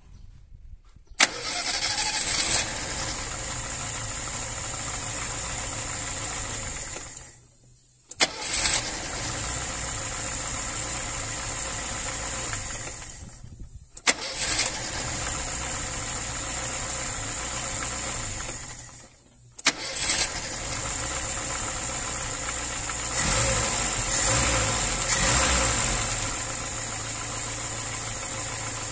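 VAZ-2103 Zhiguli four-cylinder engine idling evenly and quietly after a valve-clearance adjustment, the earlier valve clatter gone. It catches sharply about a second in, then dies away and starts again three times, and picks up a little in the later part.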